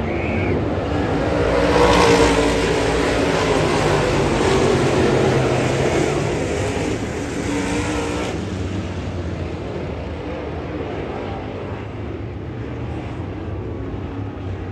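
Dirt late model race car engines running at speed on the track, loudest about two seconds in and dropping back after about eight seconds.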